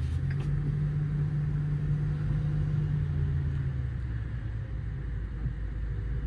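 Ford F-550's 6.8-litre V10 gasoline engine running steadily as the truck is driven, heard from inside the cab as a low, even drone with road rumble.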